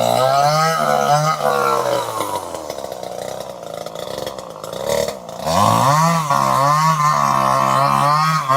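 Two-stroke chainsaw running at high revs with a wavering pitch. It eases off to a lower, quieter note for a few seconds, then revs back up to full speed about halfway through.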